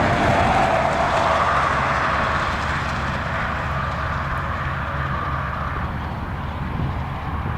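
KiwiRail DX-class diesel-electric locomotive running under load with a steady low engine throb. A higher whine over it fades out in the first few seconds, and the whole sound gradually gets quieter.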